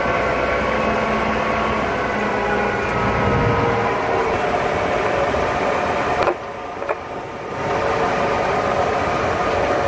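Narrow-gauge tourist train running, heard from an open passenger car: a steady engine and rolling drone with a few held tones over it. The sound drops away for a moment about six seconds in, then comes back.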